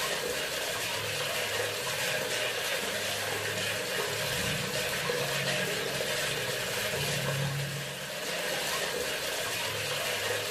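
Bathroom sink faucet running in a steady stream of water, with a low hum that comes and goes.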